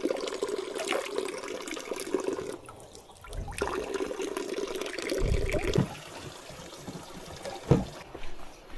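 Water running and splashing steadily from an outdoor drinking-water fountain. It fades about six seconds in, and a few low thumps sound over it.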